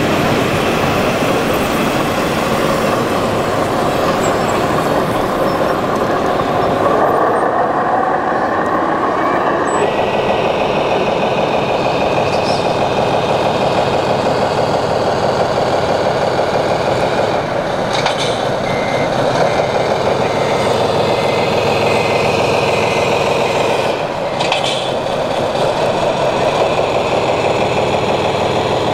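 Radio-controlled model trucks and construction machines running, their sound modules playing a simulated diesel engine. A reversing beeper sounds a series of evenly spaced beeps a little after the middle.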